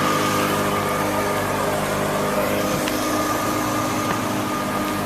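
A small motorboat's engine running at a steady speed, with a constant hiss over it.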